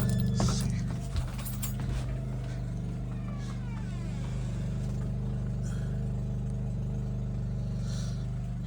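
Portable generator's small engine running at a steady speed, with a few knocks in the first two seconds. The owner says it sometimes runs right and sometimes doesn't, and suspects a carburetor that needs cleaning.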